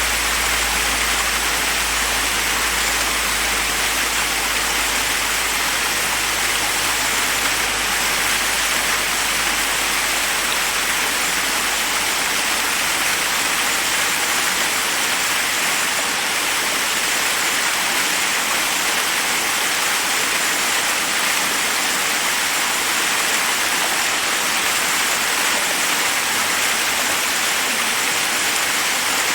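Forest waterfall: water cascading over rocks in a steady, unbroken rush.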